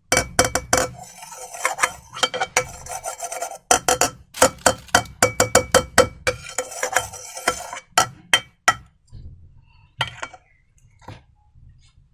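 Slime being squished and worked, a dense run of sticky clicks and crackles that thins out to scattered clicks after about nine seconds.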